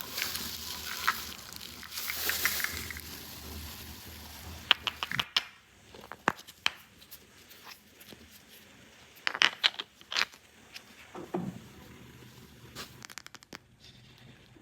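Plastic packaging crinkling and tearing for the first five seconds, then scattered sharp clicks and taps of small plastic toy pieces being handled.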